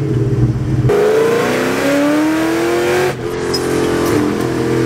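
2003 Mustang SVT Cobra's supercharged 4.6-litre V8 accelerating hard: about a second in the revs start climbing steadily for some two seconds, then the note drops suddenly at a gear change and holds steadier.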